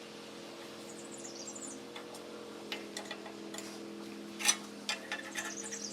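Light clicks and taps of parts being handled during a small-engine repair, the loudest about four and a half seconds in, over a steady low hum. A short high warbling chirp sounds about a second in.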